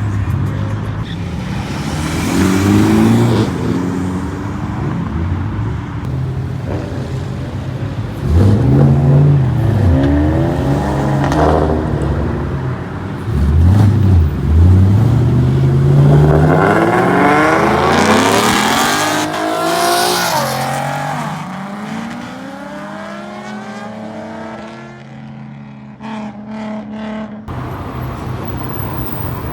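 Several cars pulling out and accelerating hard one after another, their engines revving up in rising sweeps through the gears. The loudest pulls come in the middle, and the sound fades away near the end.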